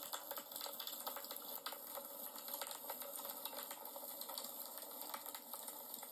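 Wood fire crackling: a dense, irregular run of small sharp pops and snaps over a soft hiss.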